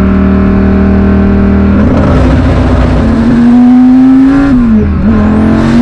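Twin-turbo Dodge Viper V10 heard from inside the cabin, pulling hard. Its note holds steady, then climbs, dips sharply for a gear change and climbs again, with a high turbo whistle rising near the end.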